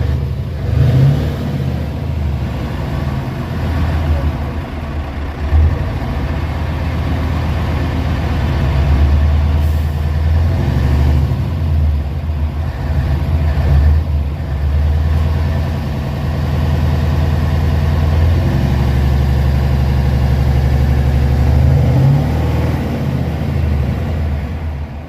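A heavy truck's engine idling, a steady low rumble that swells a little now and then.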